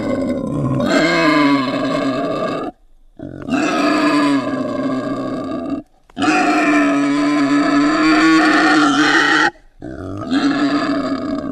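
A person's voice making grunting, growling creature sounds as homemade hamster sound effects: four long held calls with short breaks between them.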